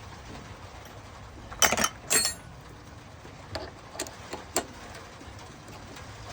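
Metal tools and parts being handled at the lathe: two sharp, ringing metal clatters about two seconds in, then a few lighter clicks, over a faint steady hum.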